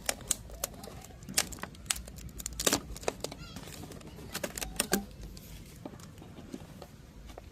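Irregular sharp clicks and knocks of PVC pipe and fittings being handled, a few a second, with the loudest strikes about a third of the way in and twice more in the middle.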